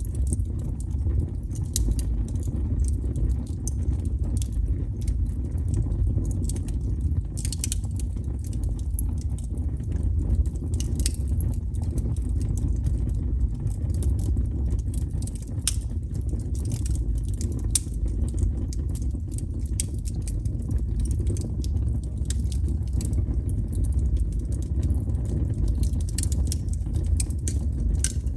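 Wood fire burning: a steady low rumble of flames with frequent, irregular sharp crackles and pops.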